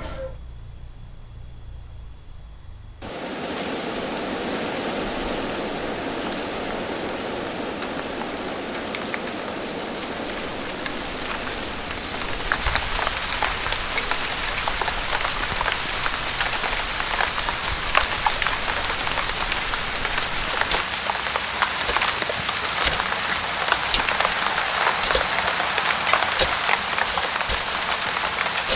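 Rain falling steadily, growing heavier about twelve seconds in, with many sharp drop impacts.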